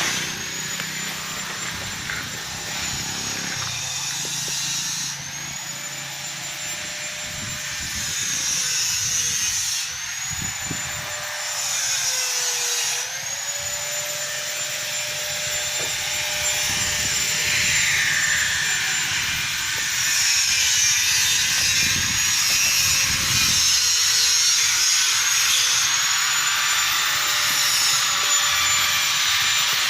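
Handheld electric power tool running at high speed with a high whine, started up several times and dipping in pitch now and then as it bites into the work.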